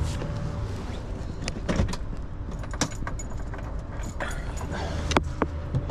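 A set of keys jingling, with scattered sharp clicks and knocks, over a steady low engine hum.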